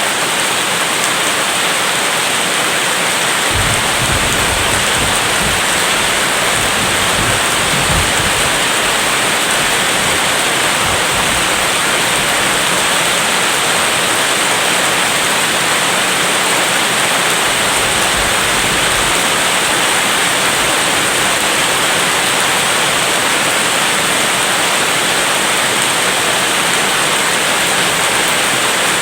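Steady heavy rain, an even hiss. A low rumble of distant thunder rolls in about four seconds in and fades out after about fifteen seconds.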